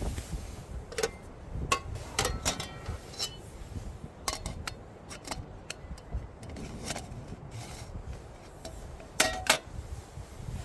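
Wood campfire crackling: irregular sharp pops and snaps from the burning wood, with two louder pops close together near the end, over a low steady rumble.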